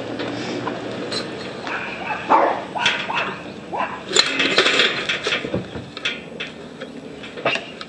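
A dog barking now and then, in short separate barks.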